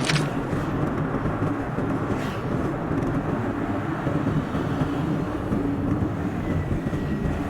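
A car driving on the road: steady tyre and road noise with a low engine hum, as heard inside the car and sped up to double speed. A couple of brief clicks, one at the very start and a softer one about two seconds in.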